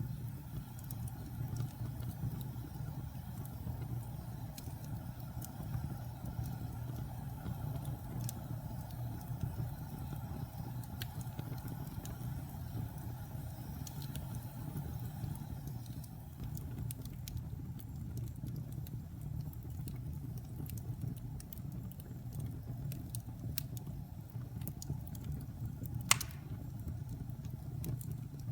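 Wood fire burning in a fireplace, with a steady low rumble and scattered small crackles. There is one louder pop near the end.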